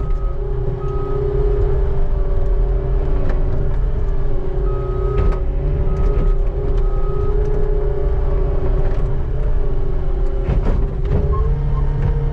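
Skid steer engine running steadily under work, with several sharp clanks and knocks scattered through and three short high beeps around the middle.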